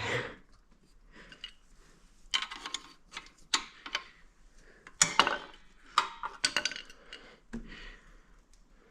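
Metal hand tools clinking and rattling against the quad's metal parts while the chain guide is worked loose: a series of short, irregular metallic clinks in several clusters.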